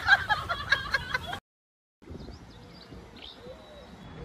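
A short stretch of voice and music cuts off to silence about a second and a half in. Quiet outdoor background noise follows, with several faint, short bird chirps.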